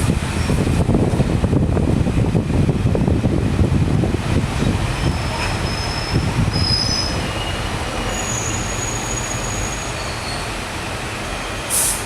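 Passenger train running on the rails, its wheel rumble easing off over the second half, with a few brief high-pitched wheel squeals about halfway through.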